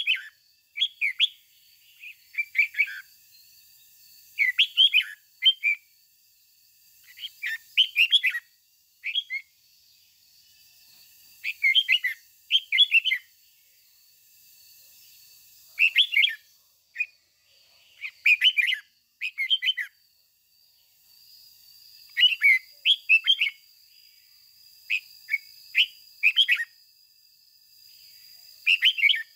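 Red-whiskered bulbul singing: short phrases of quick, clear whistled notes, repeated every one to three seconds. A faint steady high tone runs behind them and is stronger in the second half.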